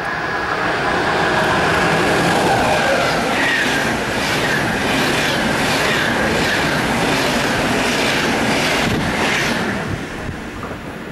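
Locomotive-hauled Intercity train of Deutsche Bahn IC coaches running through a station at speed without stopping. A rising rush as the locomotive draws near gives way to a steady rumble, with the wheelsets clicking over rail joints about twice a second, fading near the end as the last coach goes by.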